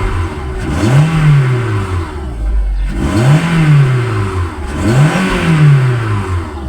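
Seat Ibiza II's 1.4 16-valve petrol engine revved three times by hand, the pitch rising and falling each time, and settling back to a steady idle in between. It starts and holds idle well after a repair for a cylinder-3 misfire.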